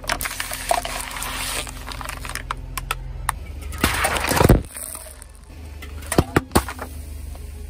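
Car engine running slowly while a tyre rolls over and crushes plastic toys, with sharp cracks and snaps throughout and one loud crunch about four seconds in.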